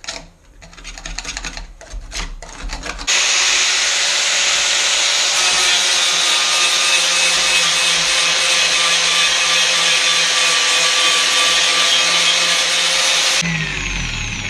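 Handheld power tool sanding down a fibreglass repair area. A few light knocks and scrapes come first, then the tool runs steadily for about ten seconds before cutting off and spinning down near the end.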